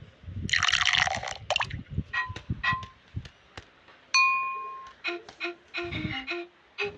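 A run of short pitched pings and chime-like notes, stopping and starting, mixed with a noisy burst near the start and scattered clicks.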